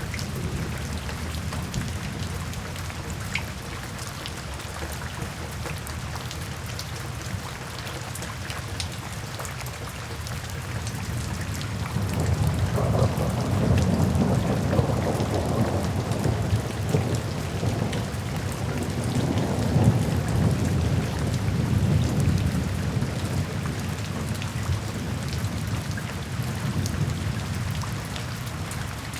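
Steady rain with scattered drops ticking on a surface. About twelve seconds in, a long low rumble of thunder swells up and rolls on for about ten seconds before fading back under the rain.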